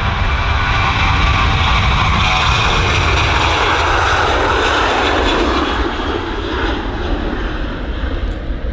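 Ryanair Boeing 737 jet engines at take-off power as the airliner departs, a loud, steady noise that eases after about six seconds as the aircraft moves away.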